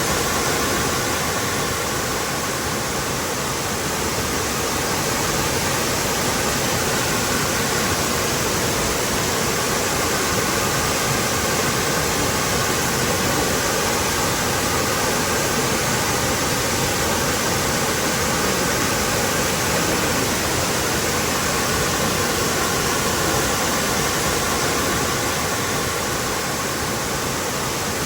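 Waterfall rushing steadily, an even, unbroken roar of falling water with no change in level.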